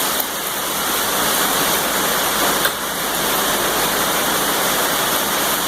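Steady, heavy hiss of hard rain, with a couple of faint clicks.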